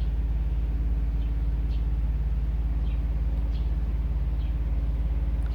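Steady low mechanical hum, like a running engine or traffic, with faint short high chirps of birds scattered through it.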